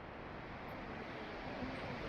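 Steady rushing hiss of a flowing river.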